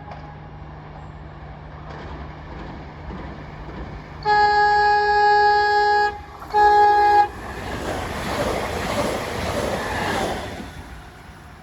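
A train's horn sounding two blasts, a long one of nearly two seconds and then a short one, followed by the noisy rush of the train passing through at speed, fading away.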